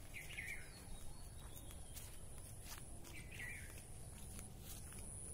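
A bird calling twice, about three seconds apart, each a short call, over a faint steady high-pitched tone.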